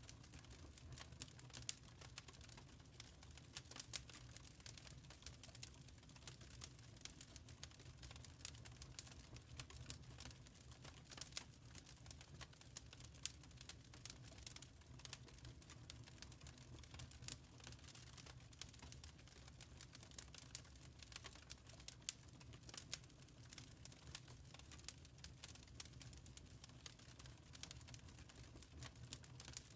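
Quiet wood fire crackling in a fireplace: frequent irregular small pops and snaps over a steady low rumble.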